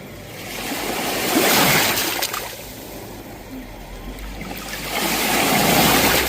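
Sea waves breaking and washing in, in two surges about four seconds apart, each swelling and then falling back.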